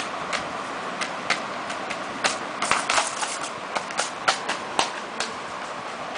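Lhasa Apso puppies playing: a run of irregular sharp clicks and taps, bunching into a quick flurry about halfway through, over a steady background hiss.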